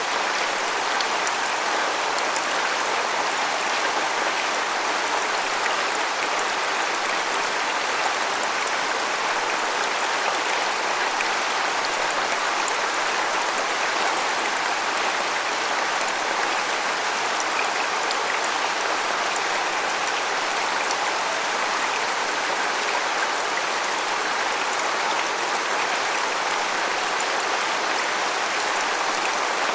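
Waterfall: falling water rushing and splashing in a steady, even hiss that is mostly high, with little deep rumble.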